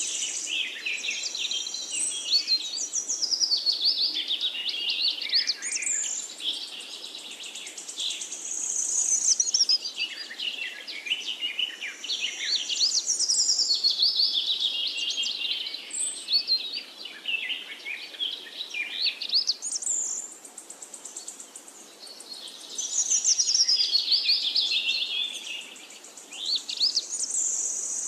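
Birdsong: rapid high chirps, trills and whistles that sweep up and down, coming in phrases of a few seconds with short breaks between them.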